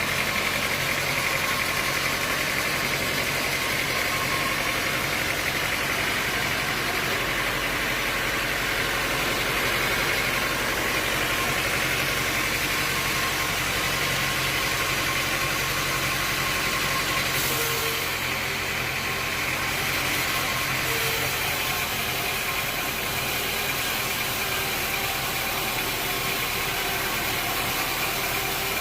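Sawmill machinery running steadily, a motor with a continuous whine.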